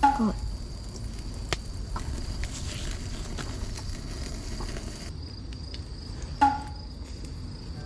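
Insects, crickets or similar, trilling steadily at a high pitch. Twice, about six seconds apart, a short loud sound drops quickly in pitch.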